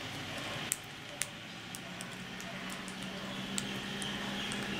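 A bird's beak nibbling and pecking at food held in a hand: a few sharp separate clicks with soft squishy sounds between them.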